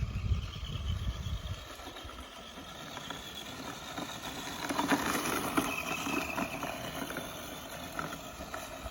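Battery-powered radio-controlled car driving off, its electric motor whining and its tyres running over the ground. Low wind rumble on the microphone during the first couple of seconds.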